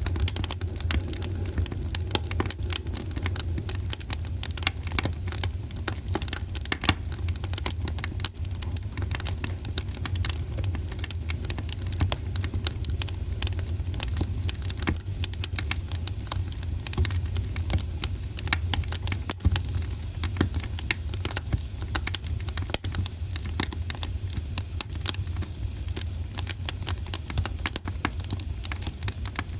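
Wood fire crackling and popping, with many small irregular snaps over a steady low rumble of flames.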